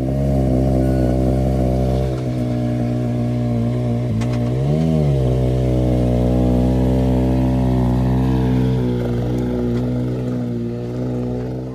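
A vehicle engine idling steadily and loudly close by, with one short rev about halfway through.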